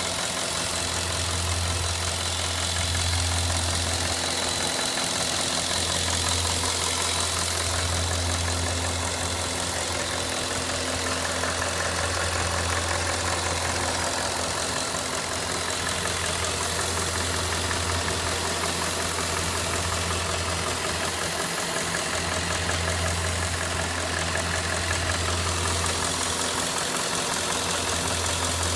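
Cadillac Northstar 4.6-litre DOHC V8 idling steadily with an intermittent clicking noise, a fault that shows up only when the engine is hot.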